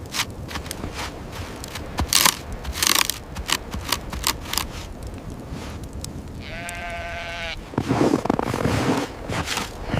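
Crunching steps or crunches, then a single steady animal call, a bleat of about a second, followed by more crunching.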